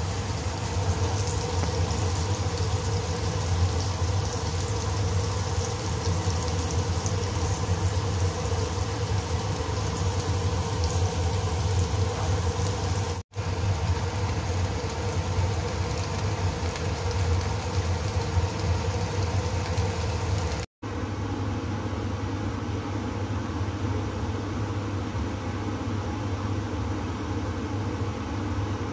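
Garlic, ginger and dried shrimp, then cabbage leaves, sizzling in oil in a wok over a steady low mechanical hum. After two abrupt cuts, about two thirds of the way in the sizzle's high hiss drops away, leaving mostly the steady hum.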